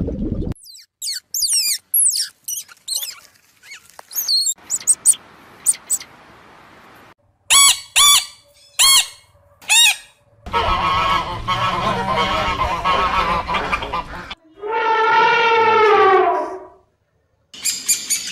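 A string of different bird calls, one after another: short high chirps, then four short calls that each rise and fall, then harsh squawking for about four seconds, then one long call that falls in pitch.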